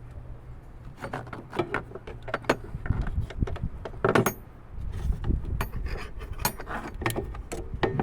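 A string of irregular clicks, knocks and metallic clinks, like tools being handled on metal, over a low steady rumble.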